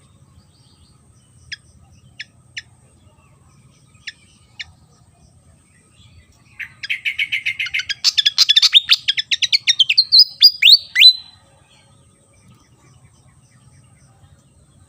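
Malaysian pied fantail (sikatan kipas) singing. A few single sharp chirps come first. About halfway in, a fast run of notes, several a second, climbs in pitch for about four seconds and ends in a few sharp downward-slurred notes.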